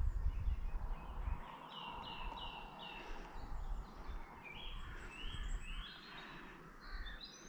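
Woodland birdsong: one bird repeats a short high note four times, about three a second, then more varied chirps follow. A low rumble sits underneath and is loudest in the first second or so.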